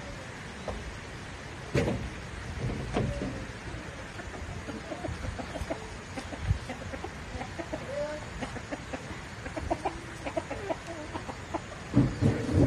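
Chickens clucking in short, scattered calls, with a couple of louder knocks, one about two seconds in and one near the end.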